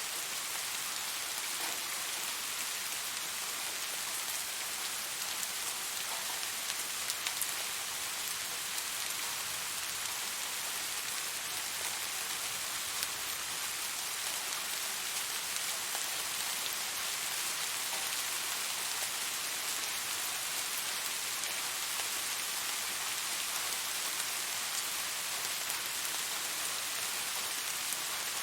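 Steady rain falling, a dense even hiss of drops with a few faint individual drop ticks.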